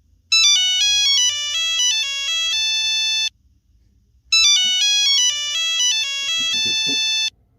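Cell phone ringtone: a short melodic tune of bright, stepping notes, played twice, each play about three seconds long with a one-second gap.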